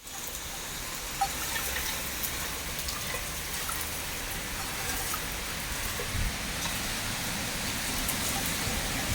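Heavy rain pouring steadily in a windstorm, with scattered drop taps and gusty low rumble, and a brief knock about a second in.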